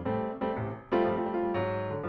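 Piano music: chords struck every half second or so and left to ring and fade.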